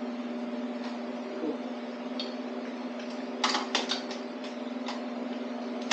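A quick run of sharp metallic clicks from hand tools working the LT1's main-cap bolts on the engine block, a little past halfway. Under them runs a steady hum.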